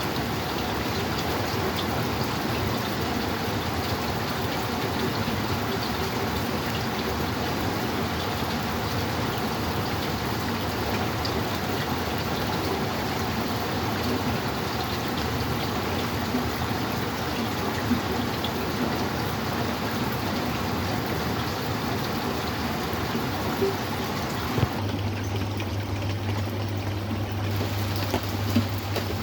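Steady rain falling, an even hiss with a few sharper drop ticks in the second half. About 25 seconds in, a steady low hum joins it.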